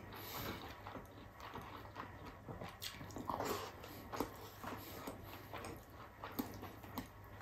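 Faint, close chewing and mouth smacking with small wet clicks: a man eating rice and slightly chewy pork fat by hand.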